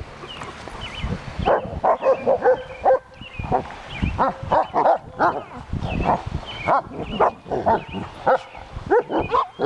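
Dogs in rough play, giving a rapid run of short barks, yaps and squeals.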